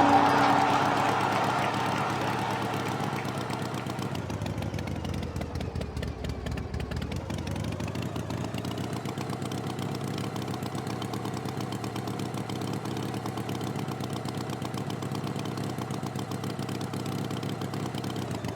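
Tractor engine running steadily, loudest at first and settling over the first few seconds, its pitch sagging briefly about midway and coming back up.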